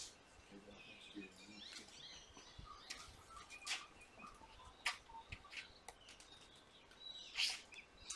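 Faint birds chirping, with a handful of short, sharp chirps scattered through.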